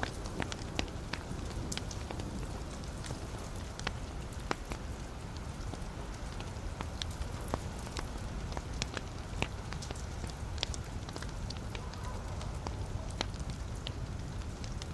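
Wood logs burning in a fireplace: a steady low rumble of flame with frequent sharp crackles and pops at irregular intervals.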